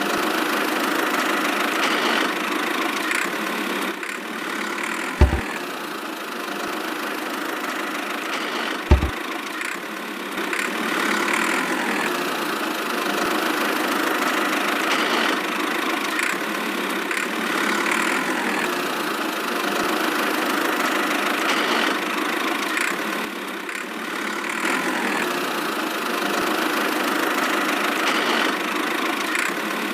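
A small motor running steadily with a mechanical drone, most likely driving a miniature DIY tractor or its machine. Two brief low thumps come about 5 and 9 seconds in.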